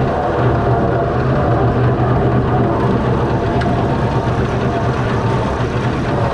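Six-cylinder Perkins diesel engine, swapped into a Fordson Major tractor, running steadily under load as the tractor pulls a slasher cutting grass.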